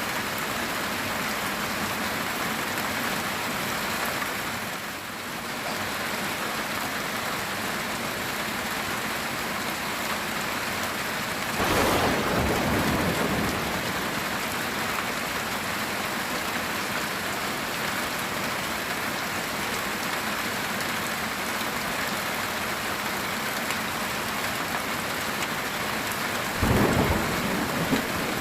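Heavy rain drumming steadily on a metal tin roof. A thunderclap breaks in about twelve seconds in and rumbles for a couple of seconds, and a second, shorter crack of thunder comes near the end.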